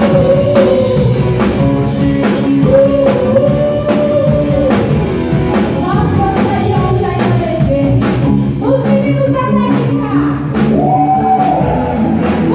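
A live rock band playing a song with a lead singer holding long sung notes over a steady drum beat.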